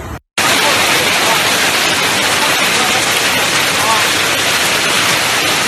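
Heavy rain pouring down, a loud, steady hiss that starts abruptly just after a brief silent gap.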